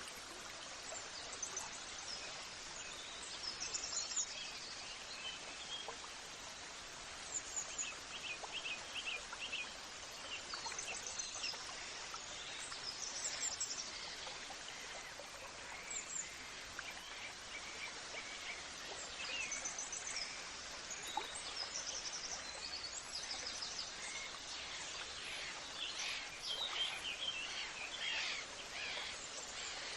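Several birds chirping and singing in short, repeated calls over a steady background hiss.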